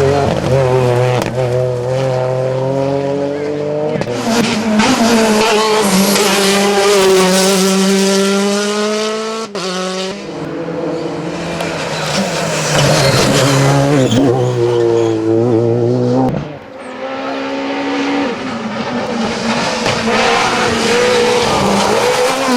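Rally car engines revving hard through the gears, the pitch climbing and dropping again and again, with some tyre squeal. There are several separate runs, with sudden breaks about four, ten and sixteen seconds in.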